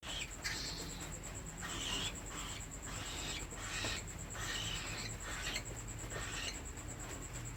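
Cockatiel chicks making raspy begging calls for food, repeated about twice a second, over a steady high-pitched whine.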